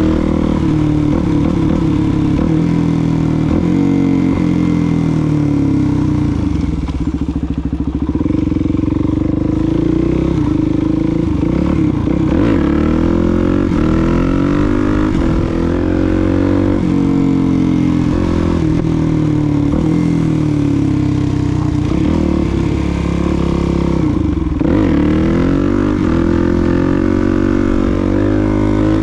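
Suzuki DR-Z400SM supermoto's single-cylinder four-stroke engine running on the road, its revs rising and falling again and again under throttle.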